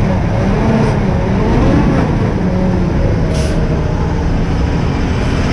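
Heavy truck engine running, its pitch rising and falling, with a short sharp hiss of air about three and a half seconds in.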